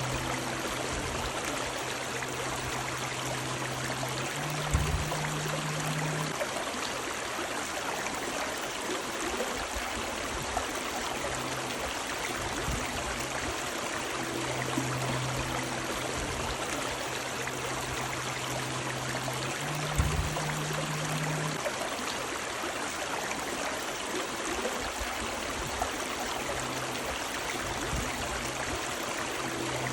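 Steady rushing of a river's running water. A low hum comes and goes, and a short low thump sounds twice, about five seconds in and again about twenty seconds in.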